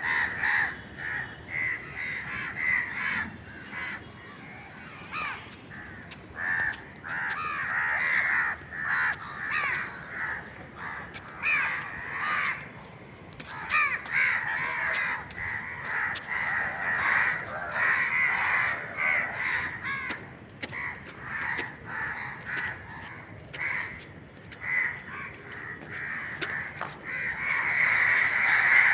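Crows cawing, harsh calls coming one after another with hardly a break.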